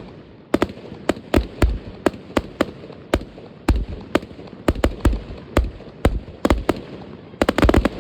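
New Year's Eve fireworks going off: a string of sharp, irregular bangs, about three a second, over a continuous background din. A rapid burst of bangs comes near the end.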